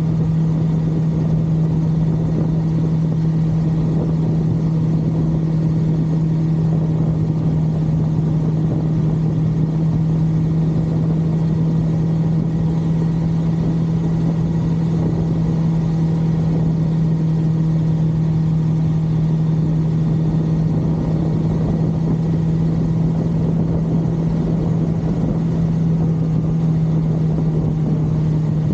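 1982 Suzuki GS550L's air-cooled inline-four engine running at a steady cruise, holding one even note, over a rush of wind and road noise.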